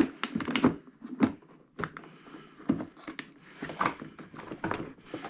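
Irregular clicks, knocks and rustles of an ATV's plastic airbox and its hose being worked and pulled loose by hand.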